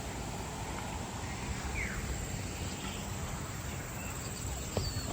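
Outdoor aviary ambience: a steady background hiss with a couple of faint, short bird chirps, one falling in pitch about two seconds in and a brief high note near the end.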